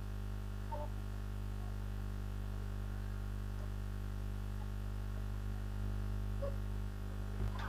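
Steady electrical mains hum on the call's audio line, a constant low buzz with a couple of faint short clicks.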